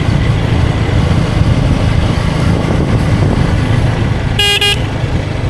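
Motorcycle riding at speed, a KTM Duke 250 single-cylinder, its engine and wind rush steady and loud, with one short vehicle horn toot near the end.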